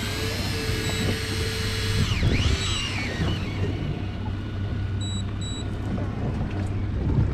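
Fishing boat's engine running with a steady low hum, while an electric fishing reel's motor whines, its pitch dipping and recovering about two seconds in. Two short high beeps about five seconds in.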